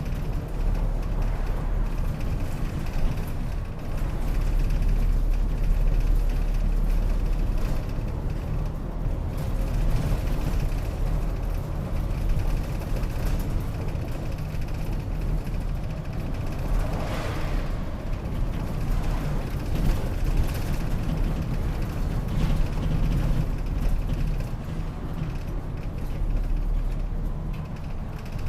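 City route bus driving along, its engine and road noise giving a steady low rumble.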